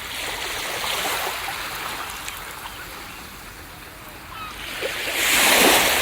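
Ocean surf washing on a beach: the wash falls away to a low hiss, then a wave breaks loudly about five seconds in.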